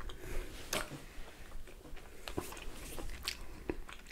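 Close-miked chewing of pizza: irregular soft wet mouth clicks and smacks.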